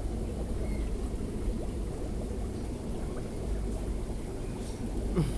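Steady burbling and rushing of aquarium water, from the filters and pumps of fish tanks, with a brief click and a short sliding sound near the end.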